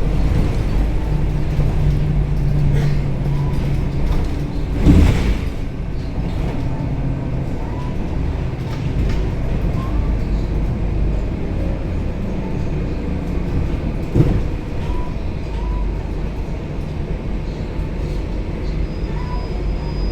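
Scania K270UB city bus's five-cylinder diesel engine running under way, heard from inside the passenger cabin as a steady low rumble. A loud jolt or thump from the body comes about five seconds in, and a smaller one near fourteen seconds.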